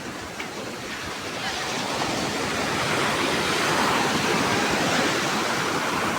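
Rough sea surf: the rushing noise of breaking waves swells to a peak around the middle and eases off near the end.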